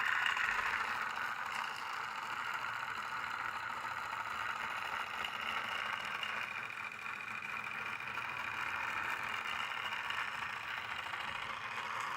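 Small battery-powered motor of a toy Thomas engine running steadily with a high whir and light rattling, a little quieter through the middle and stronger again near the end.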